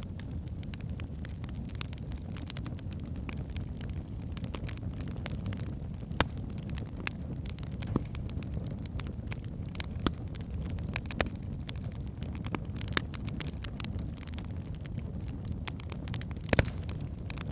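Wood fire burning in a fireplace: a steady low rumble of flames with scattered sharp crackles and pops from the logs, one louder pop near the end.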